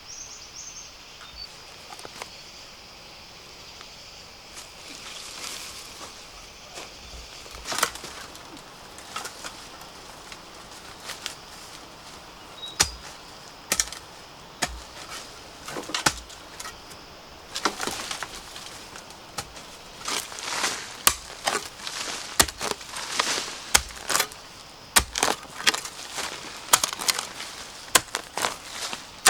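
Rustling of dry vegetation with many sharp snaps and cracks, sparse at first and coming thick and fast in the second half.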